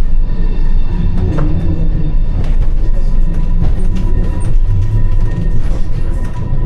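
Funicular railway car running down its track: a steady low rumble, a faint steady whine and scattered clicks from the wheels on the rails.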